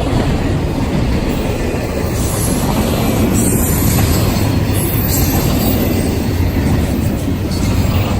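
Cars of a passing CSX intermodal freight train rolling by, a steady loud rumble and clatter of steel wheels on the rails.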